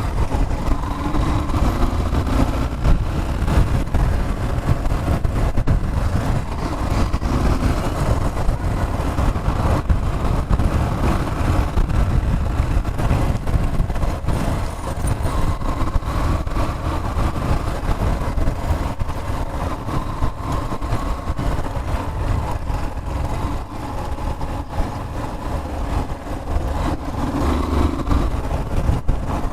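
A road vehicle's engine running, under a loud, steady low rumble.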